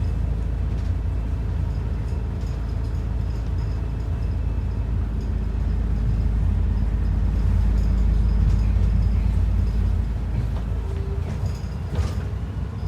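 ADL Enviro 400 double-decker bus running: a steady low engine and road rumble that swells a little midway and eases off near the end, with a single click near the end.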